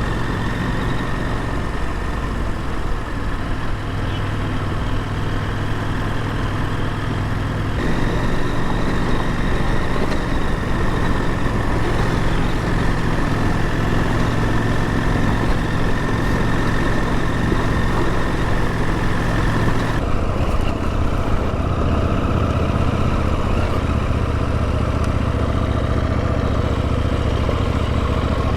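Adventure motorcycle engine running at a steady road speed, its drone mixed with wind and road noise. The sound shifts abruptly about 8 seconds in and again about 20 seconds in.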